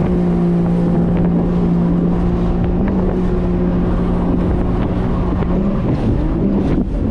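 1800cc jet ski engine running at a steady high pitch at speed, with wind on the microphone and a hiss of spray. Near the end the engine note wavers up and then drops away.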